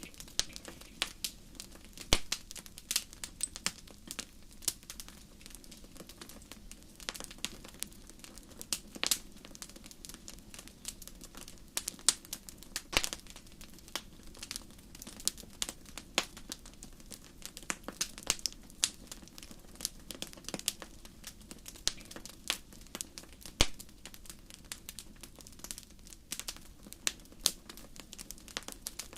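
Campfire burning, with frequent irregular crackles and sharp pops over a low steady hiss.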